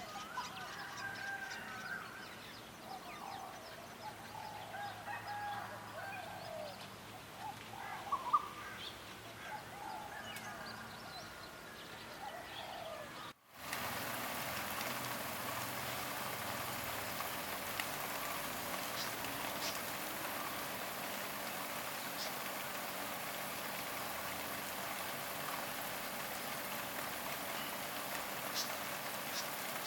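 Several birds calling with varied, warbling calls over a quiet background. About 13 seconds in, the sound cuts out briefly and gives way to a steady hiss, like running water or rain, with a faint high hum and a few scattered chirps.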